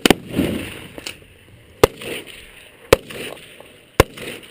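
A string of sharp bangs about a second apart, each trailed by a short echo: 12-gauge shotgun shots and small exploding targets going off.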